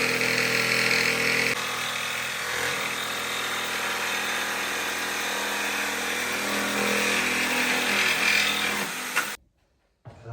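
Electric power tool running steadily under load, easing slightly about a second and a half in and cutting off suddenly near the end.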